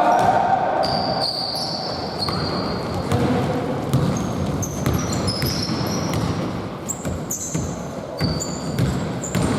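Basketball game play in an echoing gym: a ball bouncing on the court with repeated thuds, and sneakers squeaking in short, high-pitched chirps throughout.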